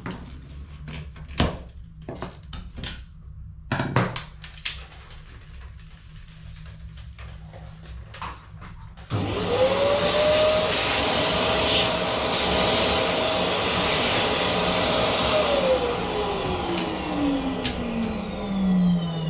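Light clicks and knocks of plastic parts being handled, then about halfway through a vacuum cleaner is switched on with a quickly rising motor whine. It runs steadily for about six seconds, then is switched off and its motor winds down in a long falling whine.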